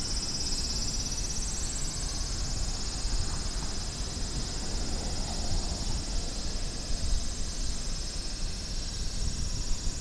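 Cicadas singing in a steady, high-pitched buzzing chorus, over a low rumble of background noise.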